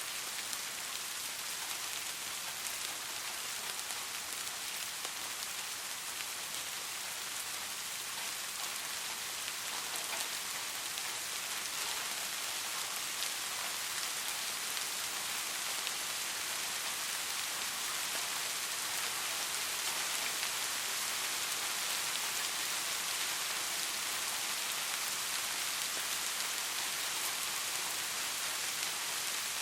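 Steady rain falling on a surface, an even hiss with scattered small drop ticks, growing slightly louder in the second half.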